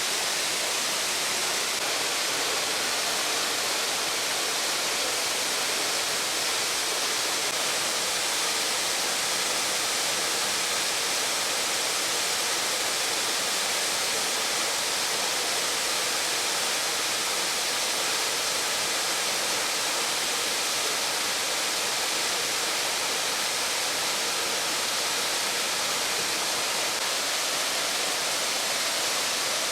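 Waterfall in full flow after heavy rains: a steady, unbroken rushing hiss, strongest in the high range.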